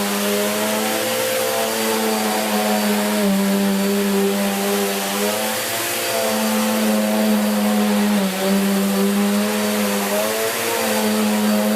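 Bissell Cleanview Plus 76P4-E 1900 W bagless upright vacuum cleaner running on carpet: a steady motor drone whose pitch dips briefly and recovers every few seconds as the load on it changes.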